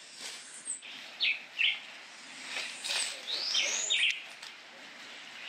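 Wild birds calling: several short high chirps, in pairs, and one longer whistle that rises and falls about three seconds in.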